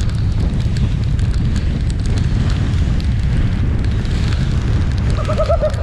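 Gale-force wind buffeting the microphone: a heavy, steady low rumble with scattered sharp crackles.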